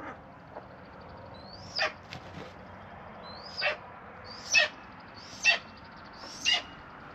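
A large bird, taken for a hawk, giving five short calls, each falling sharply in pitch, about one a second from roughly two seconds in: a warning that it wants to be left alone.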